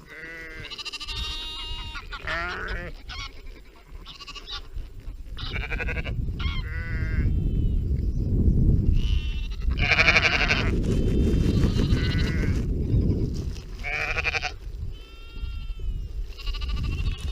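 Sheep bleating, a string of short wavering calls one after another. A low rushing noise runs beneath the calls through the middle stretch.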